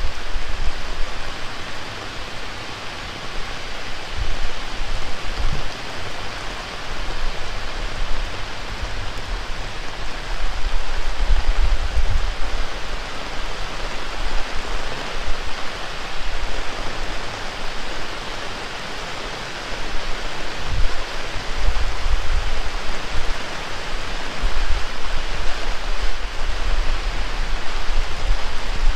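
Heavy rain pouring steadily, with irregular low rumbles of strong wind buffeting the microphone.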